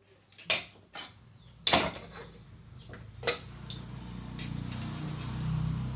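Dishes and cutlery clattering in a few sharp clacks as plates are set down for a meal. Underneath, a low rumble grows louder toward the end.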